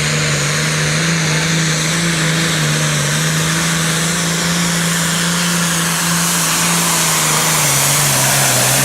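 Super Farm class pulling tractor's turbocharged diesel engine running hard at high, steady revs, its pitch dropping slightly near the end.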